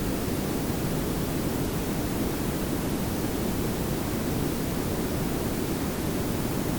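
Pink noise layered with brown noise: a steady, even hiss over a deeper low rumble, unchanging throughout.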